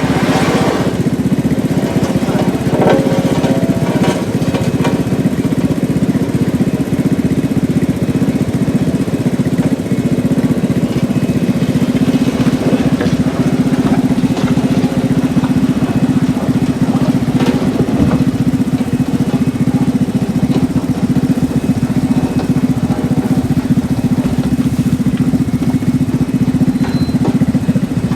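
An engine running steadily at an unchanging speed, with a few faint knocks over it.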